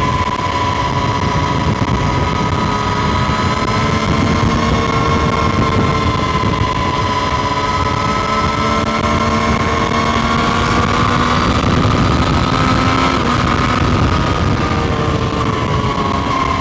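Triumph Street Triple RS's 765 cc three-cylinder engine running under way, heard onboard, holding a fairly steady engine speed; the note rises a little past the middle and eases back down near the end.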